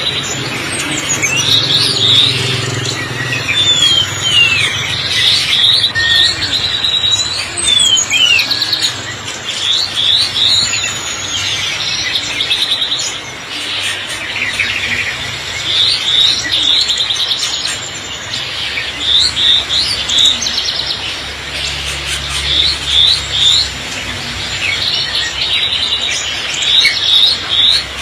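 Many songbirds chirping and calling at once, with quick trills and short downward-sweeping whistles overlapping throughout, over a steady hiss.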